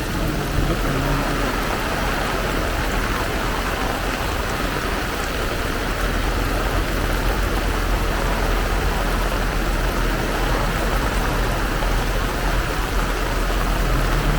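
Very heavy rain pouring down without a break: a dense, even hiss of rain, with a steady low rumble underneath.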